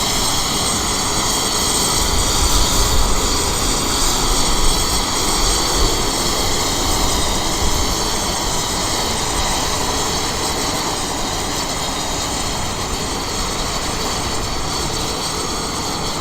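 Cessna Citation X business jet's turbofan engines running, a steady rush of engine noise that eases off slightly toward the end.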